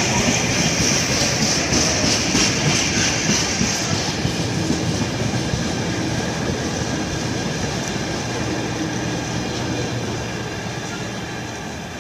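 A train running through the station with wheels on the rails, a high whine over the rumble for the first few seconds, the sound slowly fading towards the end.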